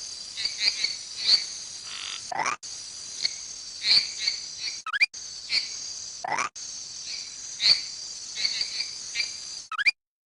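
Rainforest night-type ambience: a steady, high insect chorus with frequent short chirping calls and a few sweeping calls, edited into short pieces with brief gaps.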